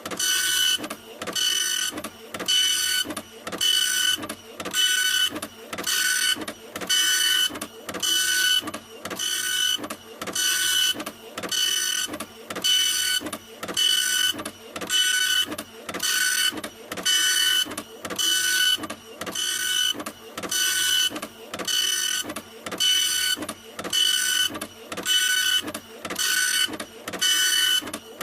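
Printer printing: a steady rhythm of mechanical passes, a little more than one a second, each a whirring sweep with a whine in it.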